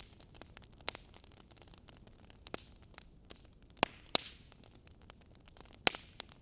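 Wood fire crackling, with many small clicks and a few sharper pops, the loudest just past the middle and one near the end, over a faint hiss.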